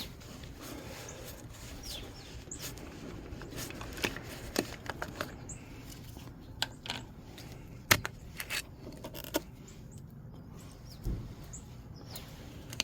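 Scattered light clicks and knocks of hands handling parts and the oil bottle in a car's engine bay after an oil fill, with one sharper knock about eight seconds in.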